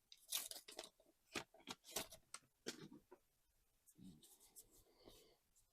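Faint handling of trading cards: a string of light clicks and slides as cards are flipped and shuffled, going softer in the second half.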